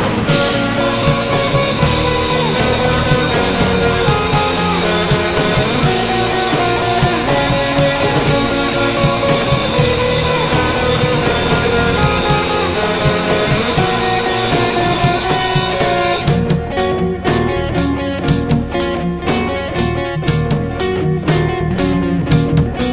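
Post-rock/screamo band track: guitars and drum kit in a dense, sustained wall of sound. About sixteen seconds in it breaks into a run of sharp, rhythmic hits with short gaps between them.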